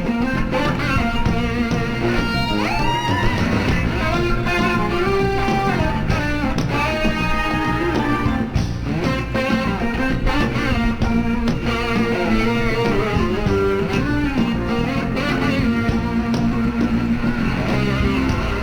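Live band music led by an electric slide guitar, its notes gliding up and down over bass guitar.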